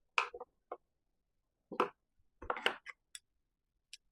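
Scattered short clicks and knocks, about half a dozen irregular taps and clinks, from hands working at the screws on the back of a miter saw's dust chute.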